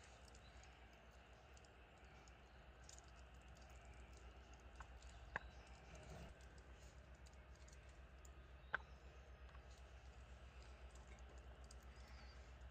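Faint wood fire crackling with scattered small clicks and two sharper pops, over a steady low hum.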